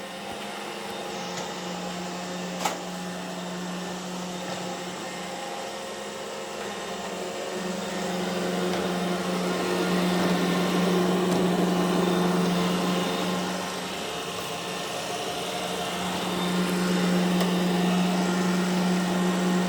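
iRobot Roomba e5 robot vacuum running: a steady motor hum with brush and suction noise, swelling louder about eight seconds in and again near the end. A single sharp click comes a few seconds in.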